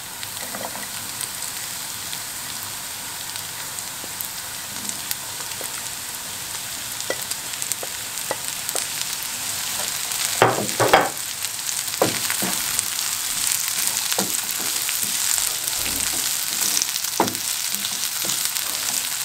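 Diced onion and chopped red and green peppers sizzling in oil in a frying pan, a steady hiss. A wooden spatula stirs them, knocking and scraping against the pan a few times in the second half.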